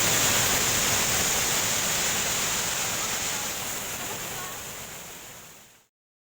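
Steady rush of a waterfall's falling water, fading out over the last few seconds and giving way to total silence just before the end.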